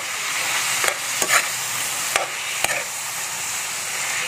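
Chicken pieces sautéing in hot oil in a wok: a steady sizzle, with a metal spatula scraping across the pan a few times as they are stirred.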